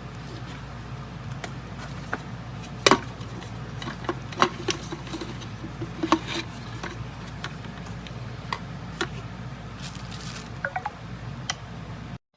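Scattered light clicks and taps of objects being handled, over a low steady hum, stopping abruptly near the end.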